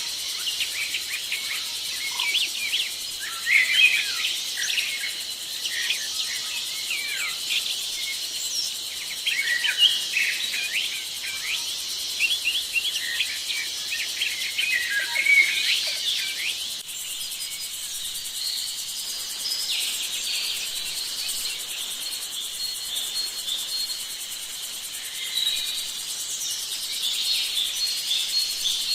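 Birds chirping and singing over a steady high insect chorus. The chirps are thick for the first half, then thin out to short repeated notes after an abrupt change about seventeen seconds in.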